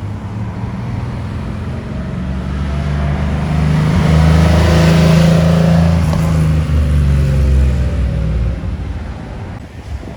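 A car driving past with its engine running. It grows louder, is loudest about halfway through, then drops slightly in pitch and fades as it pulls away.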